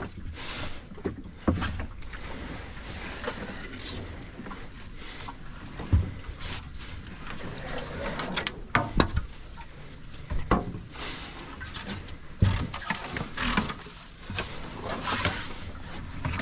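Kayak paddling: paddle strokes splashing and swishing through the water, with sharp knocks every second or two.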